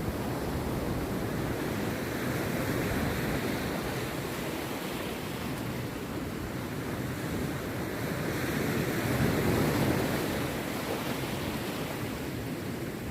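Rough sea surf washing and breaking on a beach in a continuous rush, swelling to a louder surge about two-thirds of the way through.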